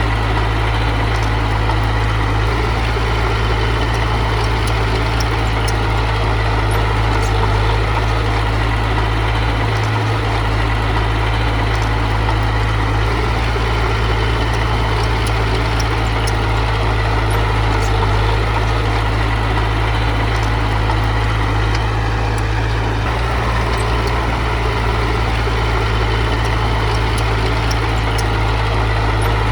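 Heavy diesel engine of earthmoving machinery running steadily at a constant low rumble, with no revving.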